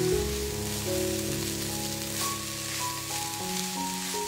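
Background music with long held notes over the sizzle of ground chicken and vegetables frying in a pan as a spatula stirs them.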